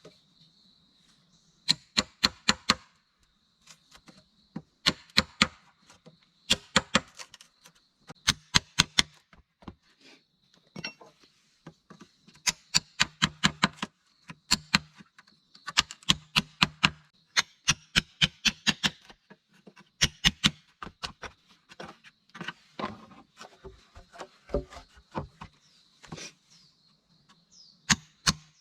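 Repeated sharp blows of a hand tool striking wood, in bursts of several quick strokes separated by short pauses.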